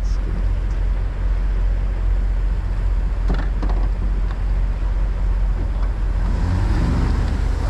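Semi-truck diesel engine running with a steady low rumble.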